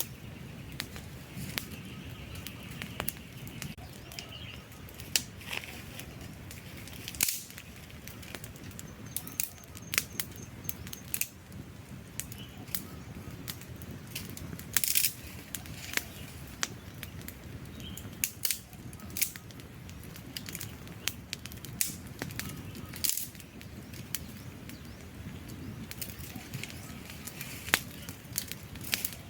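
Wood fire crackling, with irregular sharp pops and snaps from the burning logs over a low steady rumble of the flames.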